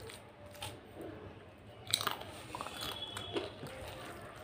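Close-miked eating sounds: chewing soft, mashed rice congee (phena bhat), with scattered wet mouth clicks, the sharpest about two seconds in.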